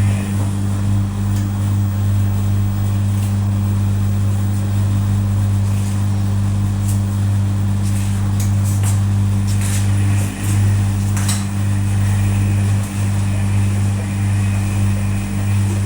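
Wall-mounted home inverter humming steadily while it runs a washing machine at about 28% load. A few faint clicks come between about seven and eleven seconds in.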